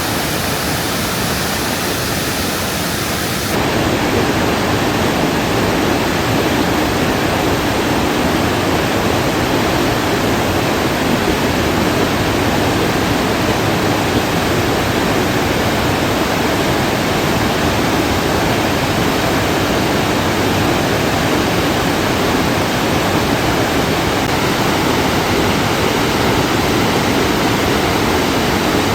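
Mae Ya Waterfall's water falling, a loud, steady rushing noise. About three and a half seconds in the sound changes abruptly and grows fuller and deeper.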